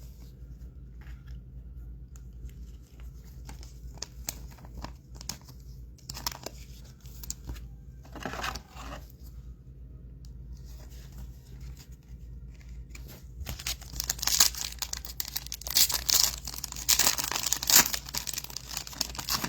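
A trading card pack wrapper being handled, crinkled and torn open. Scattered light rustles and clicks give way, about fourteen seconds in, to louder, denser crinkling and tearing.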